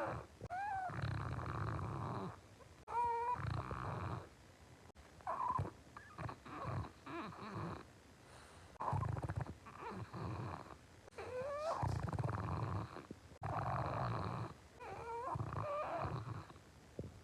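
French bulldog snoring in its sleep: a rumbling snore on most breaths, roughly every one and a half to two seconds. Several snores carry high, squeaky whistles that glide up and down. This is the noisy breathing typical of the breed's short, flat muzzle.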